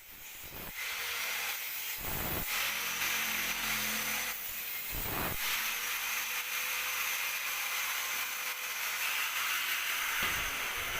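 Power tool working steadily on a metal exhaust muffler, a continuous hissing grind. A few short deeper surges come about half a second in, at about two seconds, around five seconds and near the end.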